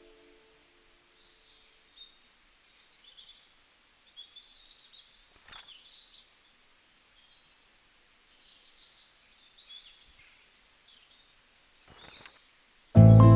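Faint birds chirping and twittering as quiet outdoor ambience, with a couple of soft clicks. A lingering music note fades away at the start, and loud background music comes in near the end.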